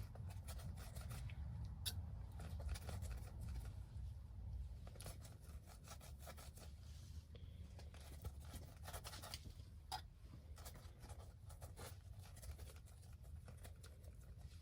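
Faint handling noises: scratching and rubbing strokes with scattered light clicks, over a steady low hum.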